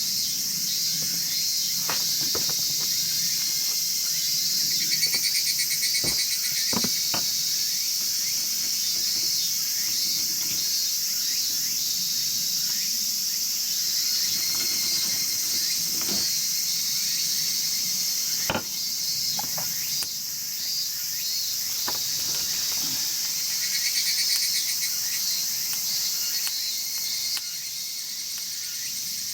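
A steady chorus of chirping insects, with scattered sharp pops and crackles from a wood fire burning in a chimney fire pit.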